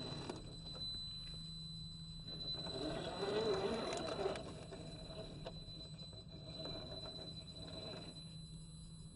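Scale RC crawler driving over dirt: gritty crunch of tyres and chassis on soil and stones, over a steady electric whine from the motor and drivetrain. The crunching grows louder in the middle and ends with a sharp click.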